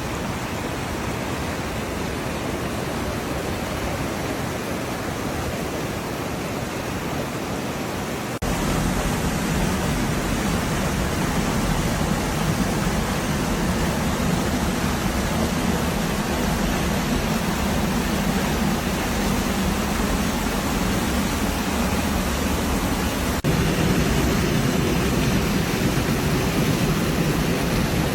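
Waterfall on the River Swale, a steady rush of falling water. The sound steps abruptly louder and fuller twice, about eight seconds in and again about five seconds before the end.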